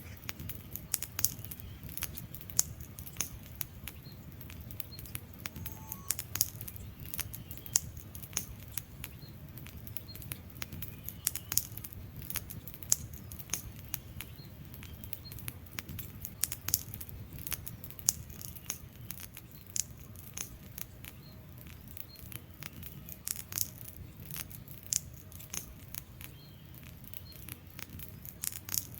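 Wood fire crackling in a fireplace: irregular sharp pops and snaps of burning logs, several a second, over a low steady rumble of the flames.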